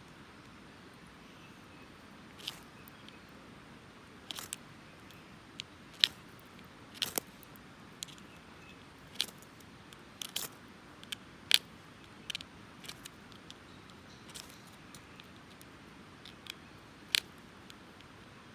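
Flint struck against a steel striker to light a campfire: sharp clicks at an uneven pace, some in quick pairs, over a low steady hiss.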